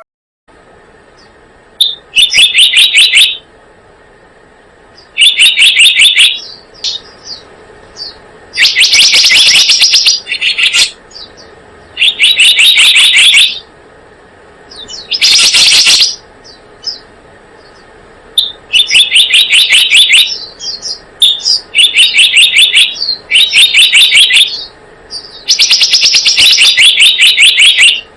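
Lure recording of the bird called selendang biru in Indonesia: loud bursts of very fast chattering trills, each about a second long, repeated every few seconds, with short single chips in between, over a faint steady hiss.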